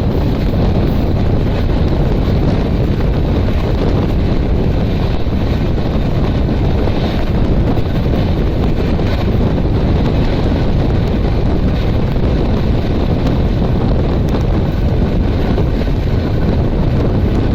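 Steady rush of wind buffeting the microphone over the running noise of a moving passenger train.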